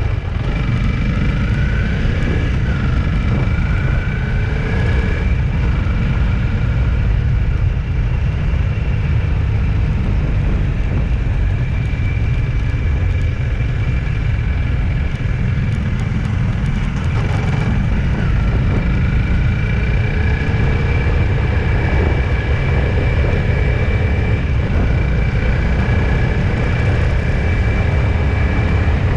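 A road vehicle on the move: a steady, loud low rumble of engine and road noise, with faint engine tones slowly rising and falling as speed changes.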